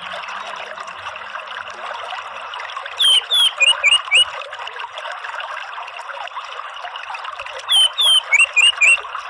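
Orange-headed thrush calling in two bursts of about five short, sharp whistled notes each, about three seconds in and again near the end, over a steady trickle of running water.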